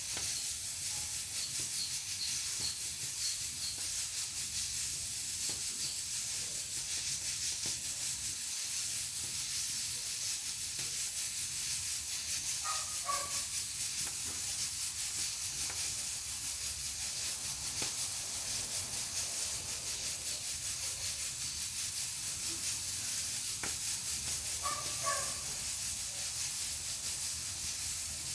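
Pressure cooker on a wood-fired stove hissing steadily as steam escapes through its valve, over a low rumble from the fire. Twice, about twelve and twenty-five seconds in, a short animal call sounds.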